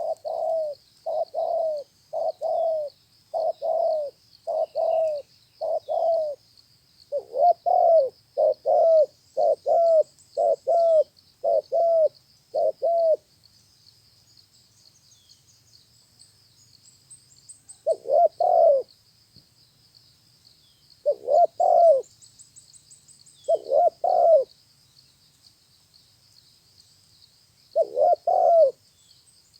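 Male spotted dove cooing: a fast run of low coos for the first dozen seconds or so, a pause of about five seconds, then single coos every few seconds. A faint steady high-pitched buzz runs underneath, with a few faint high chirps.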